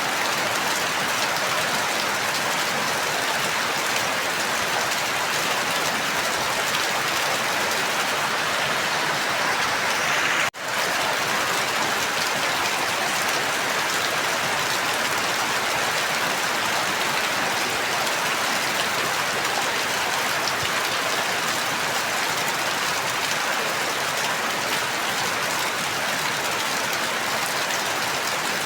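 Steady, dense rain falling. About ten seconds in, the sound drops out for a split second and then resumes.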